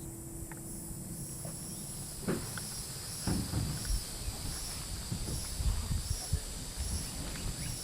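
Insects trilling in a steady high chorus that swells and fades in an even pulse. From about two seconds in, scattered soft thumps and rustles join it.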